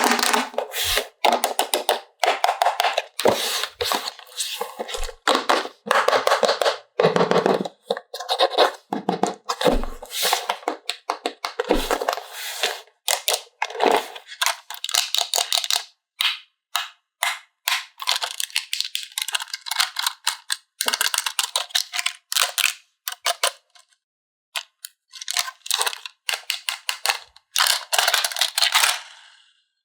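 Plastic toy packaging and parts being handled and pulled apart: a rapid, irregular run of crackles, clicks and snaps, thinning out briefly about two thirds of the way in before picking up again.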